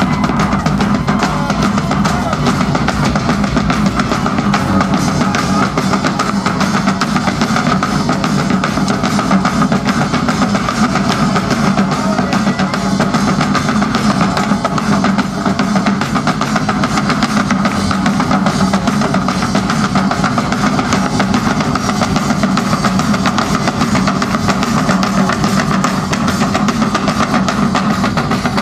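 Live Celtic tribal rock: Highland bagpipes play a melody over their steady drone, backed by massed drums and bass drum, with guitar.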